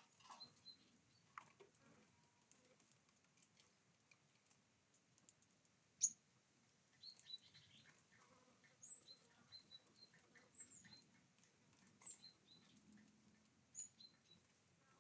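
Faint, short, high chirps from small birds, scattered irregularly, with the sharpest single note about six seconds in, among a few faint clicks.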